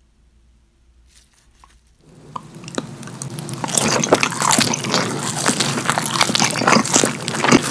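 Close-miked biting and chewing of a slice of cheesy Domino's chicken alfredo pizza, heard as a dense run of wet clicks and smacks. It is faint at first, then grows loud from about two seconds in as the bite is taken and chewed.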